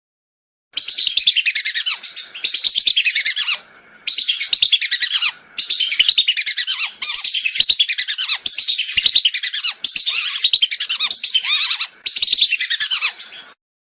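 Recorded whistling duck calls, used as a hunting lure: loud, rapid runs of high chirping whistles in about nine bursts. They start suddenly about a second in and cut off near the end.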